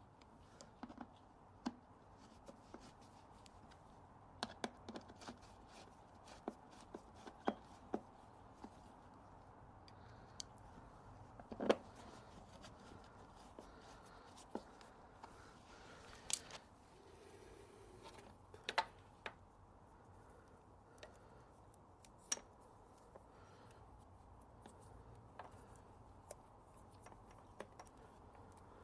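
Occasional light clicks and taps of parts and tools being handled, over quiet room tone; the sharpest tap comes about twelve seconds in.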